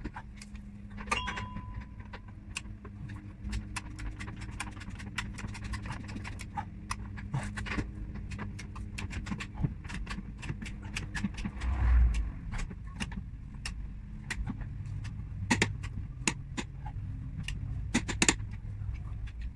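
Irregular metallic clicks and clinks of hand tools and parts being handled during car repair work, with a dull thump about twelve seconds in, over a low steady hum.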